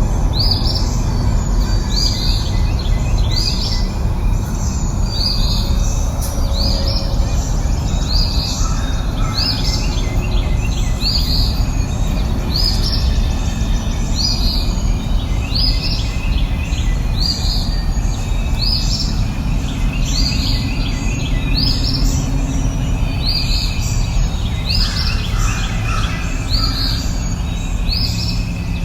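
A bird repeating a short, high, rising chirp about once a second, over a steady low rushing background.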